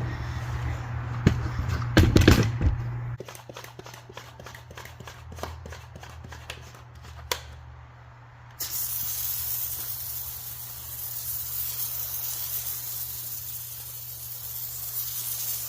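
A run of quick clicks and knocks, then a hand-pumped foam sprayer (iK Foam Pro 2) starts spraying about eight and a half seconds in and keeps up a steady high hiss.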